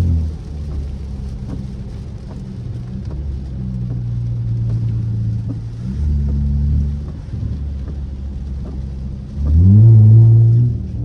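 Straight-piped car exhaust droning at a steady cruise, then opening up twice under acceleration: a short surge about six seconds in and a loud rising rev about nine and a half seconds in before easing off again.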